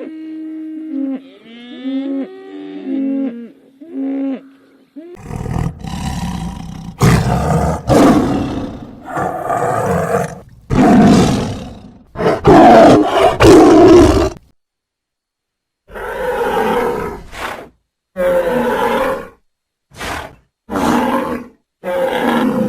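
Short pitched calls that rise and fall, then a run of loud, rough animal roars from about five seconds in, and after a brief pause a string of shorter roars.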